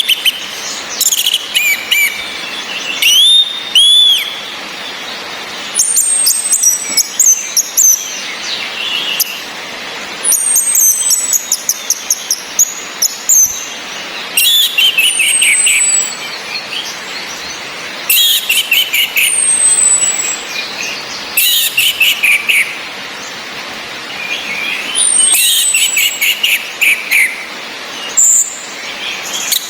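Orange-headed thrushes calling and singing over a steady hiss of rain. High thin whistles slide downward every few seconds, between rapid stuttering phrases and bursts of sharp ticking notes.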